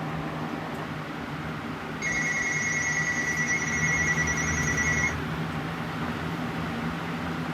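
A 20-inch box fan running at speed: a steady rush of air with a low hum. About two seconds in, a high steady tone sounds over it for about three seconds and cuts off suddenly.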